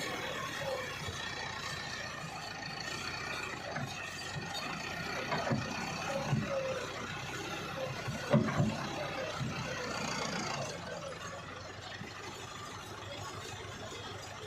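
Tractor engine running steadily, with a few knocks or thumps about halfway through.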